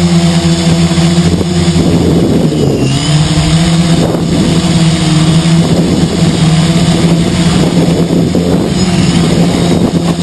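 Quadcopter's four brushless 2212 motors and 10-inch carbon propellers buzzing in flight, a loud steady drone made of several close pitches that waver and shift as the motors correct. Strong wind rushes over the microphone at the same time.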